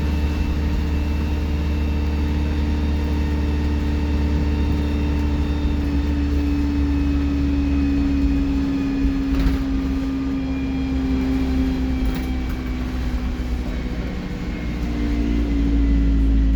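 Alexander Dennis Enviro 200 single-deck bus engine running steadily under way: a low drone with a thin, high turbocharger whistle over it. There is one short click about nine and a half seconds in.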